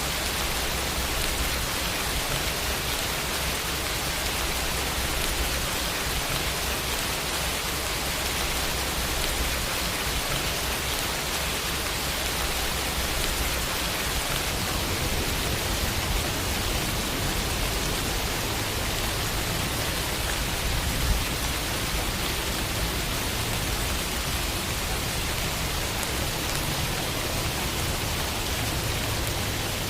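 Steady rain falling on a window pane, an even hiss with a low rumble underneath. A single slightly louder tap shows about two-thirds of the way through.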